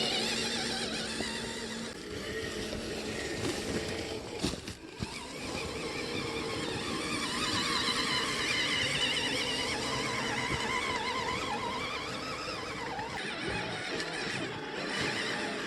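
Electric motor and gearbox of an RC scale truck whining, the pitch wavering up and down as the throttle changes, with a short lull about four to five seconds in.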